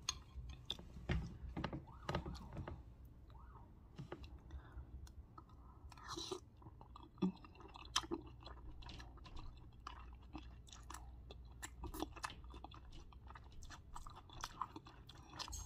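Chewing and mouth sounds of someone eating gumbo and rice, with many short clicks and scrapes of a metal spoon in a glass bowl.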